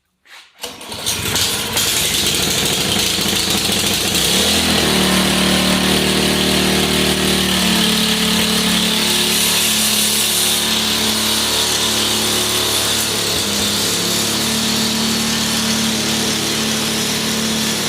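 Ariens AX 208 single-cylinder engine of a snowblower starting on choke, catching within about a second and then running continuously; its note settles into a steadier tone about four seconds in. This is the first start after a carburetor rebuild and a new fuel line.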